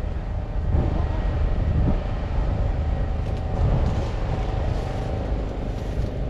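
Fendt 728 Vario tractor's 7.5-litre six-cylinder diesel engine running steadily.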